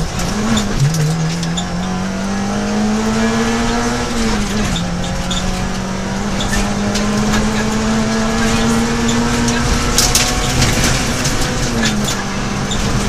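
Peugeot 106 XSi rally car's engine heard from inside the cabin, running hard under load with the revs climbing slowly. The revs drop sharply at a gear change about four seconds in and again near the end. A burst of rattling knocks comes about ten seconds in.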